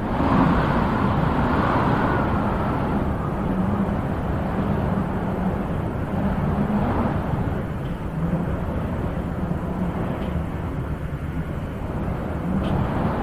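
Wind blowing steadily, swelling in gusts near the start, about halfway through and again near the end.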